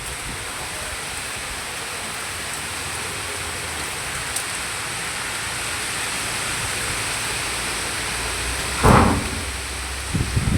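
Steady roar of heavy tropical-cyclone rain and wind. About nine seconds in comes a sudden louder burst, with two smaller ones near the end.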